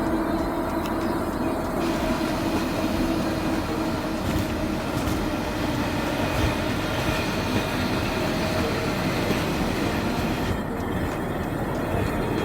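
Passenger train running along a station platform: a steady rumble of wheels on rails. Higher-pitched rail noise fills in about two seconds in and falls away about two seconds before the end.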